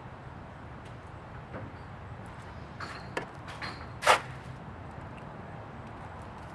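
A few short, sharp knocks or clicks, the loudest about four seconds in, over a steady low hum.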